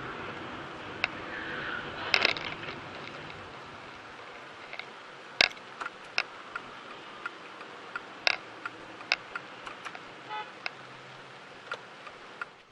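Steady road and traffic noise with scattered sharp clicks and knocks, and a short beep-like horn toot about ten seconds in.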